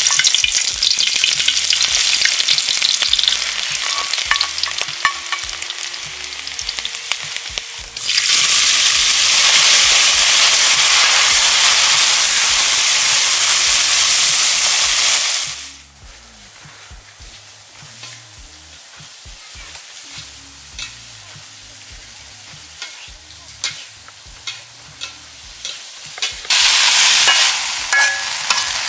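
Hot oil sizzling in a steel wok as chopped garlic and chillies go in, then crickets frying while a metal spatula stirs and scrapes them. The sizzle is loud and steady through the first half, drops about halfway to a quieter crackle with scattered clicks of the spatula, and turns loud again near the end.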